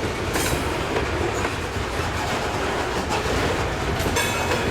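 Freight train cars rolling past at close range: a steady rumble of steel wheels on rail with clicks over the rail joints, and a brief high squeal near the end.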